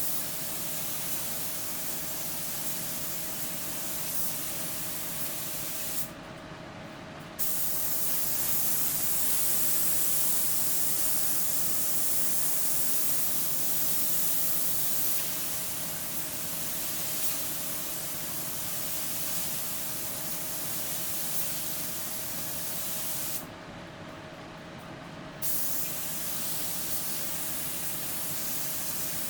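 Compressed-air paint spray gun (1.3 tip, about 2 kg air pressure) hissing as it lays down a light mist coat of clear over fresh base coat. The trigger is released twice for a second or two between passes, and a faint steady hum runs underneath.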